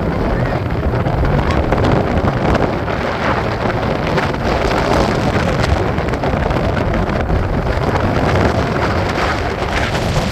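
Strong wind buffeting the microphone: a loud, steady rush with fine crackling ticks throughout.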